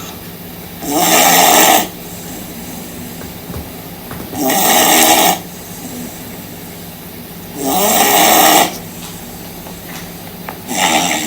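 An overweight beagle snoring: four loud snores, each just under a second long, coming about every three seconds, over a steady low hum.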